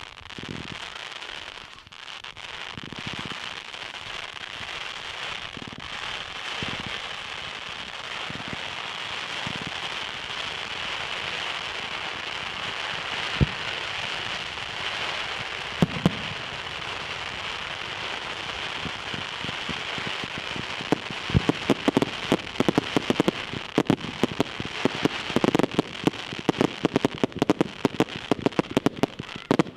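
Fireworks going off: a long steady hiss and crackle with a couple of single bangs, then, about two-thirds of the way through, a fast run of sharp cracks and bangs.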